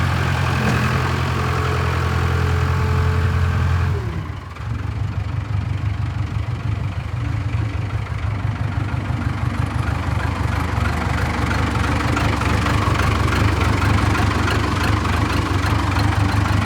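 Case 580K backhoe loader's four-cylinder diesel engine running, dropping back about four seconds in and then idling with a pulsing beat.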